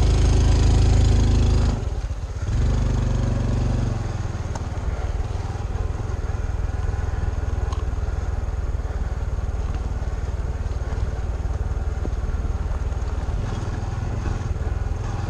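Honda CT125 Trail 125's single-cylinder engine under hard throttle, dropping off briefly about two seconds in and pulling again, then running steadily at lower revs for the rest.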